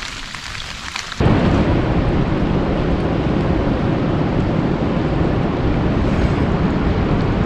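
Rain pattering with distinct drop clicks, then about a second in an abrupt switch to a louder, heavier storm sound: dense rain with a deep, steady rumble.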